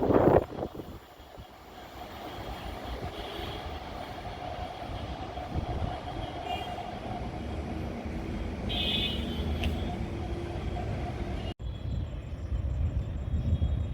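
MEMU electric multiple unit train running on the rails: a steady low rumble that slowly grows louder, after a loud burst at the very start. The sound cuts off abruptly for a moment about eleven and a half seconds in, then the rumble carries on.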